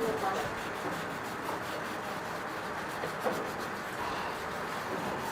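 A steady rubbing noise, as in hand work on a part in a repair workshop.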